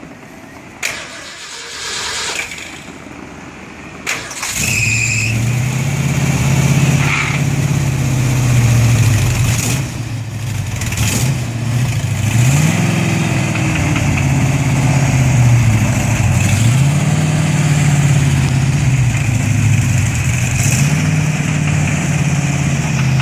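Ford 360 big-block V8 breathing through headers and glasspack mufflers, starting up about four seconds in and then running steadily, with the pitch rising briefly about three times as it is given a little throttle.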